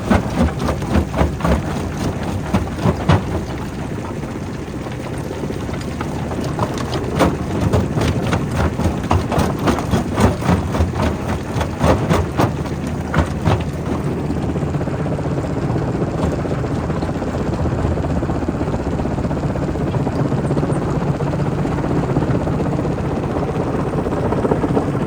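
Primary rock crusher working: rock cracking and clattering in rapid, irregular knocks over a low mechanical drone. About halfway through the knocks thin out and the steady drone of the running machinery carries on.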